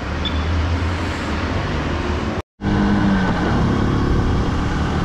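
Steady traffic noise, then a sudden brief gap about two and a half seconds in. After it, the Honda Super Cub 50's small four-stroke single-cylinder engine runs and wind rushes past as it rides along a city street.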